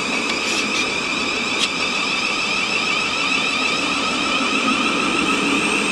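Thameslink Class 700 Desiro City electric multiple unit pulling away, its traction motors giving a steady high whine.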